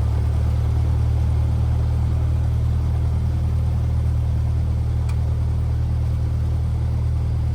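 Cessna 172R's four-cylinder Lycoming engine running at low taxi power, a steady low drone heard from the cabin.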